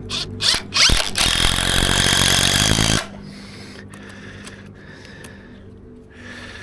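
Cordless power driver driving a screw into the timber shuttering frame: a couple of short bursts, then a loud run of about two seconds that stops abruptly.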